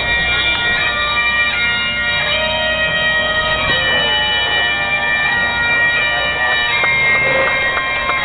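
Bagpipe music played over a public-address system: a slow melody of held notes over a steady drone.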